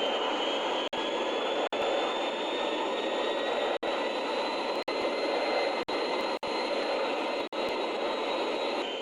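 Aircraft engine noise: a steady rush with a faint high whine that climbs slowly in pitch. It is broken by brief silent gaps about once a second.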